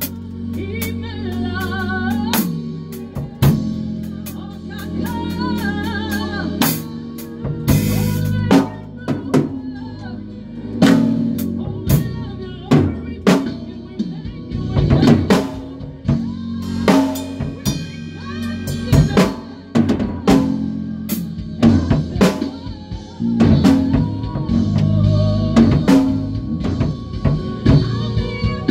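A band rehearsing: a drum kit playing snare and bass-drum hits with fills over sustained low bass notes.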